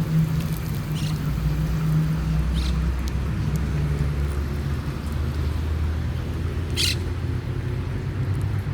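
A steady low rumble with a low, engine-like hum running under it, and a few brief high clicks, the sharpest about seven seconds in.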